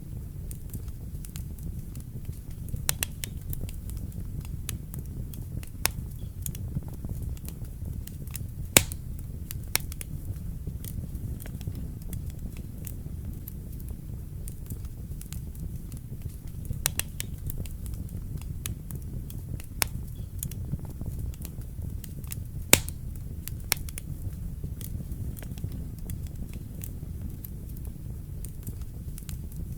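Wood fire burning in a fireplace: a steady low rumble of the flames with irregular sharp crackles and pops, the loudest pops about nine seconds in and again about twenty-three seconds in.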